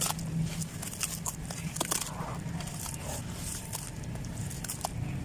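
Dry clumps of dirt being crumbled: an irregular run of small crackles and crunches, over a steady low hum.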